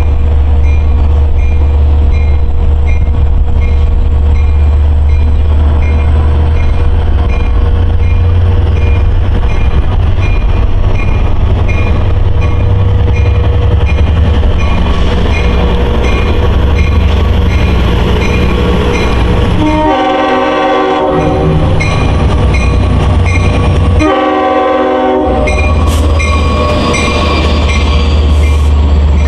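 LIRR M3 electric multiple-unit train passing at speed with a loud, steady low rumble. It sounds two horn blasts, each about a second long, about two-thirds of the way through.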